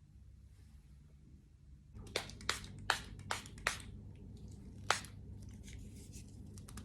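A run of sharp clicks or taps from small hard objects being handled: five in quick succession about two seconds in, then one more a second later, over a low steady hum.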